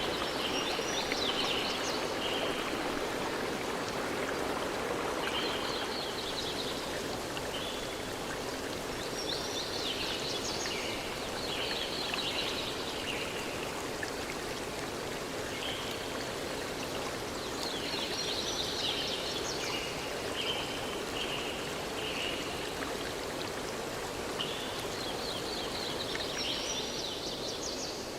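Forest stream flowing steadily over stones, with birds chirping in repeated bouts every few seconds above the water.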